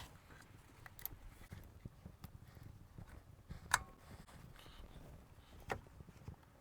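Faint handling noises of hand work on a VW Beetle's transaxle boot as the old rubber boot is cut away and removed, with a few sharp clicks about a second, three and a half seconds and near six seconds in.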